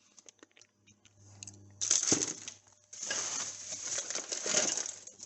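Plastic packaging rustling and crinkling, with light clinks of small metal parts, as bagged kit parts are handled. A sudden louder crinkle comes about two seconds in, then steady rustling for a couple of seconds.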